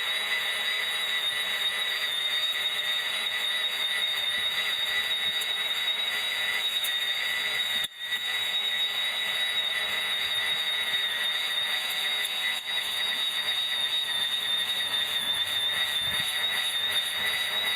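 Electric grass trimmer running steadily with a high, even whine, cutting out for a split second about eight seconds in.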